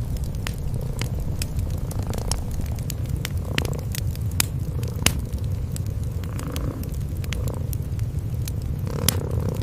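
Cats purring in a steady low rumble, under the frequent irregular pops and crackles of a wood fire.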